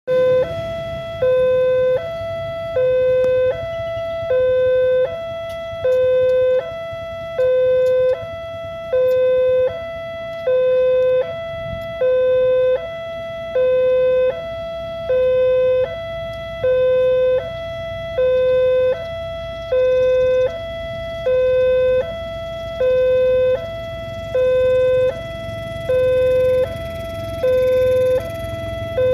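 Railway level-crossing warning alarm sounding: an electronic two-tone signal switching steadily back and forth between a lower, louder tone and a higher one, about one cycle every second and a half. It warns that a train is approaching and the crossing barriers are closing.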